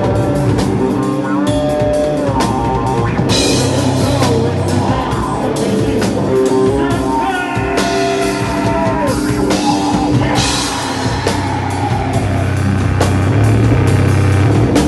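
A live hardcore band playing loud and without a break: electric guitars and a drum kit with frequent cymbal hits, in a raw, unmixed recording.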